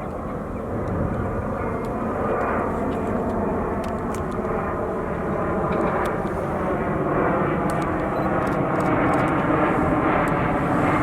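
Jet airliner engines running, the noise swelling gradually.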